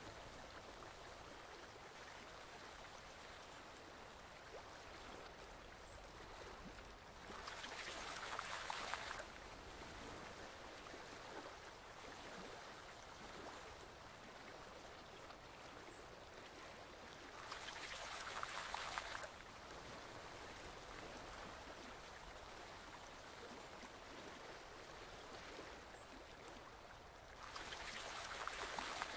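Forest stream flowing: a steady, faint rush of water that swells louder for about two seconds roughly every ten seconds, three times.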